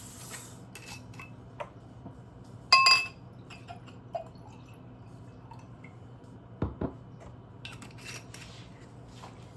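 Kitchen glassware and dishes being handled: scattered light clinks and knocks, with one loud ringing glass clink about three seconds in.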